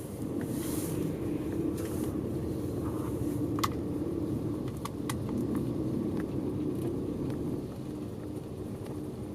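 Bus engine running, heard from inside the passenger cabin as a steady low hum that rises slightly and eases off near the end, with scattered clicks and rattles from the body.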